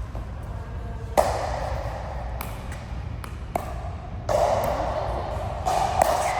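Sharp hits roughly a second apart, as of a ball being struck back and forth in a rally. A steady background murmur grows louder about four seconds in.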